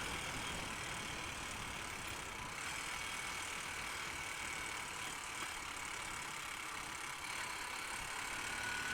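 Honda Unicorn motorcycle being ridden along a highway: steady engine and road noise that does not change.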